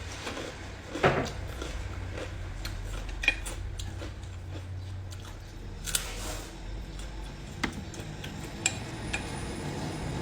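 Tableware and food being handled: scattered light clicks and knocks, the loudest about a second in, over a steady low hum.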